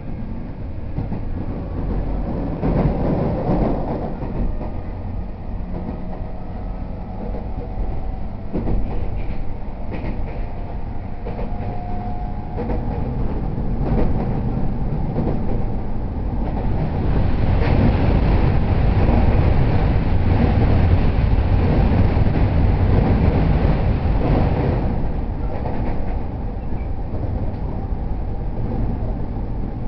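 Running noise inside an E231 series 0 electric commuter train under way: a steady rumble of wheels on rail with faint motor tones. It grows louder for several seconds in the middle, then eases back.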